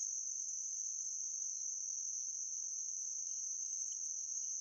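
Crickets chirring in a continuous, steady high-pitched trill, with no wind to be heard.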